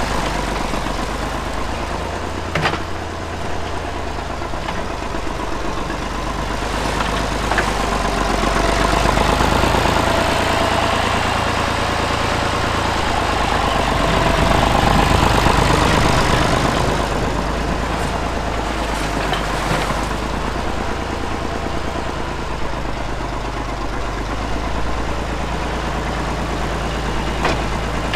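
Tractor engine running steadily, swelling louder twice, once around the middle and again a little later, with a few short sharp clicks over it.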